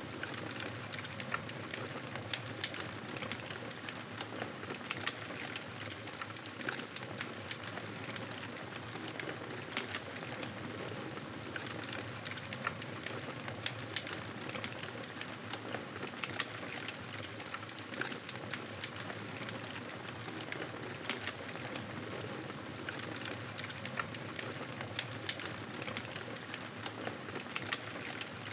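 Campfire burning, a steady crackle with many small sharp pops scattered throughout.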